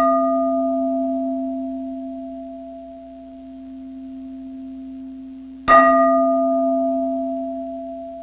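Toning bowl, a singing bowl said to resonate at the heart chakra, ringing from a fresh strike: a steady low hum with a higher overtone, slowly fading. It is struck again about six seconds in and rings on.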